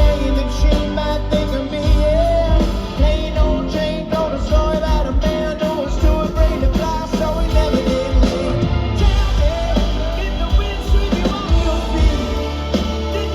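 Live rock band music in concert: drums, bass and guitars playing steadily with a singing voice over them.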